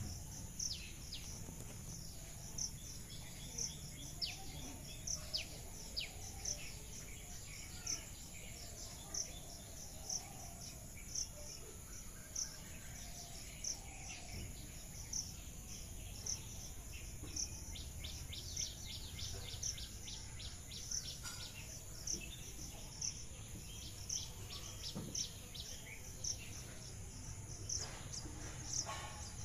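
Outdoor chorus of insects and birds. A steady high insect drone runs under a short high chirp that repeats about every two-thirds of a second, with scattered bird calls over it and a quick run of calls about two-thirds of the way through.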